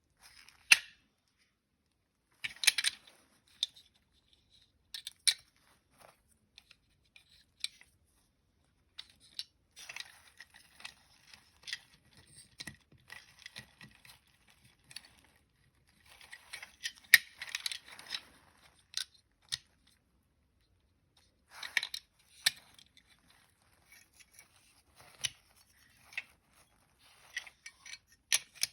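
Small parts being handled and worked on: scattered sharp clicks and taps, with stretches of light rustling and scraping and short quiet gaps between them.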